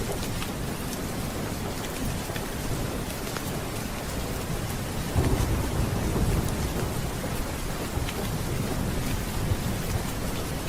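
Steady rain with a low rumble of thunder that swells about five seconds in.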